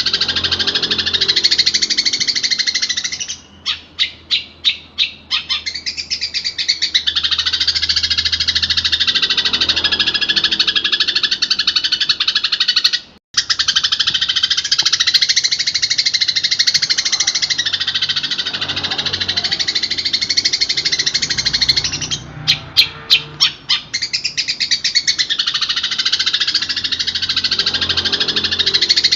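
Long-tailed shrike (cendet) singing a continuous, dense, high chattering song packed with mimicked fill-ins. The song is twice broken by a run of sharp ticks, about three a second, and cuts out for a moment midway.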